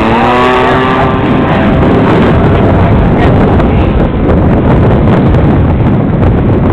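Radio-controlled aerobatic airplane's gas engine running, its pitch climbing over the first second and then holding steady, under heavy wind buffeting on the microphone.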